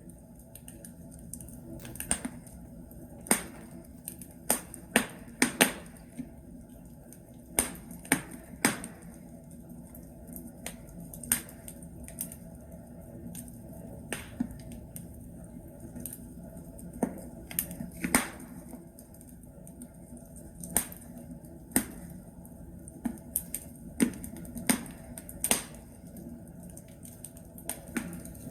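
Wood logs crackling in a fireplace: irregular sharp pops and snaps over a steady low hiss of the fire.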